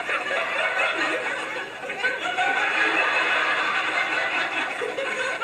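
Studio audience laughing together at a sitcom punchline, a sustained laugh from many people that eases slightly near the end.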